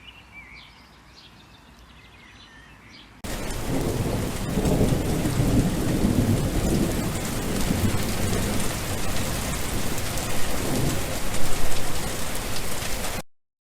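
Faint birds chirping, then about three seconds in a sudden cut to heavy rain with deep rolling thunder rumbling under it, swelling louder near the end. The sound drops out abruptly just before the end.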